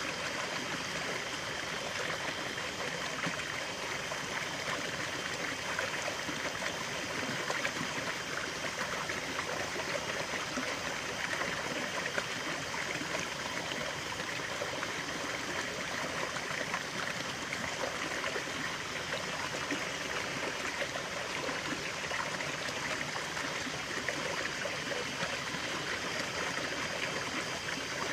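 Running water of a stream, a steady trickling and babbling flow with no pauses or changes.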